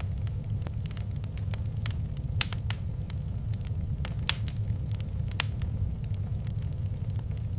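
Fireplace wood fire crackling with irregular sharp snaps, a few louder pops scattered through, over a steady low rumble.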